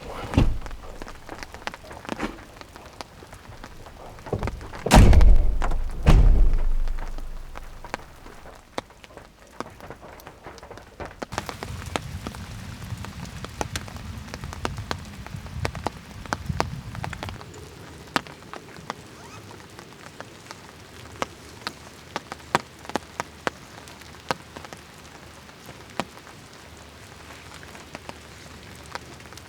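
Rain falling, with individual drops ticking sharply on a surface. Two heavy low thuds, the loudest sounds here, come about five and six seconds in.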